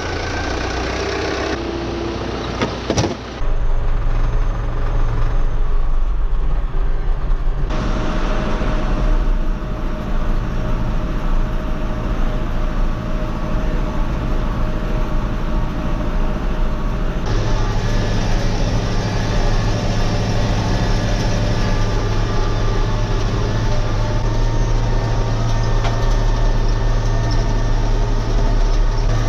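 A vehicle engine running steadily with a low hum. Its sound changes abruptly several times, with a sharp click about three seconds in.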